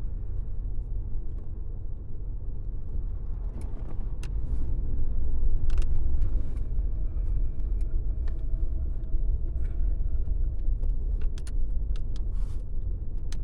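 Oldsmobile Cutlass Supreme running at low speed as it is turned around and parked: a steady low engine rumble that grows louder for a couple of seconds about five seconds in, with a few light clicks over it.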